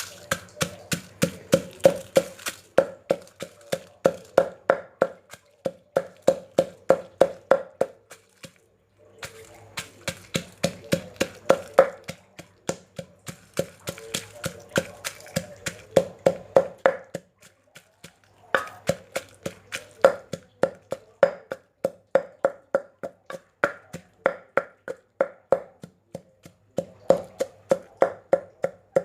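Pestle pounding in a mortar, making Thai papaya salad (som tam): a steady run of knocks about three a second, broken by three short pauses.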